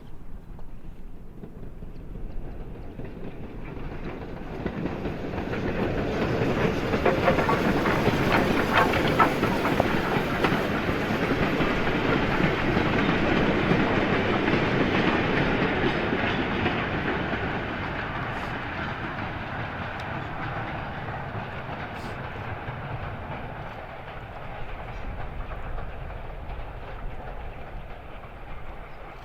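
Steam-hauled train passing, its wheels clattering over the rail joints. It grows louder over the first few seconds, is loudest for a spell in the middle, then fades away as it recedes.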